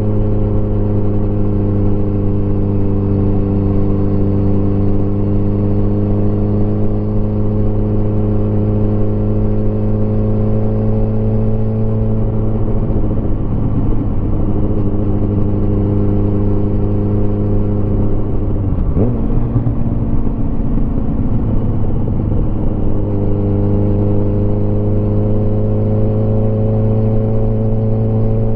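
Motorcycle engine running steadily under way. Its note turns uneven for about ten seconds in the middle, with a short sharp click partway through, then settles back to a steady note.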